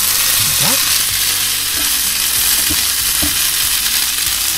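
Chicken mince and onions in curry paste sizzling steadily in a frying pan, browning, while a silicone spatula stirs and scrapes through them with a few soft knocks against the pan.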